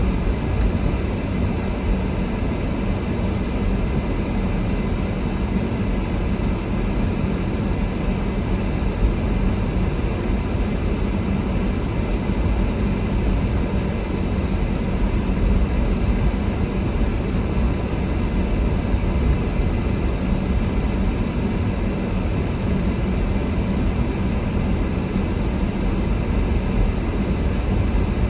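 Steady engine and tyre noise of a car driving, heard as a constant low rumble with a faint hum.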